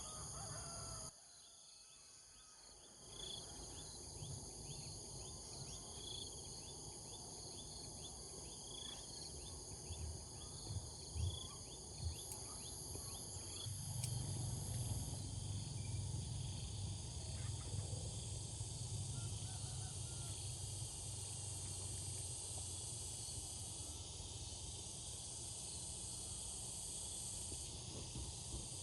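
Steady chorus of insects chirring in several high-pitched tones, with short repeated chirps in the first half and a low rumble underneath.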